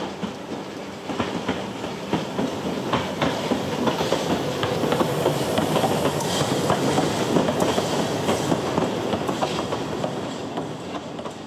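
Narrow-gauge Talyllyn Railway passenger carriages rolling past on the track, wheels clicking and rattling over the rail joints. The rattle swells to its loudest around the middle, then fades as the train moves away.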